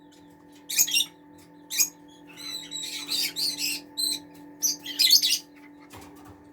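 Newly hatched chicks (Black Brahma, Serama and white Silkie) peeping in short high-pitched bursts, several calls close together in the middle, over a steady low hum.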